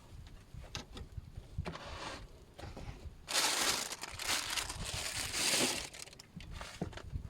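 A loud crinkling rustle for about two and a half seconds, starting about three seconds in, amid scattered small knocks and taps.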